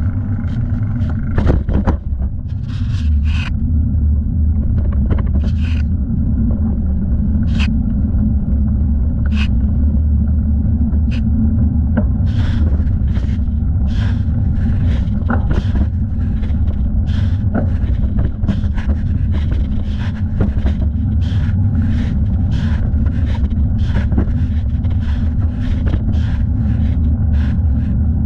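Wind rumbling on the microphone of a thigh-mounted camera while riding a bicycle, with frequent short clicks and rattles from the bike over the path.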